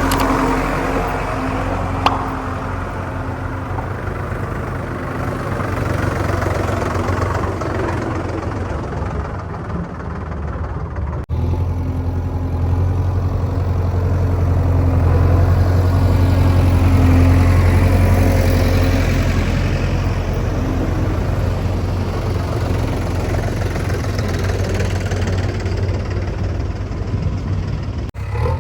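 Heavy diesel machinery engine running steadily, with a single sharp click about two seconds in.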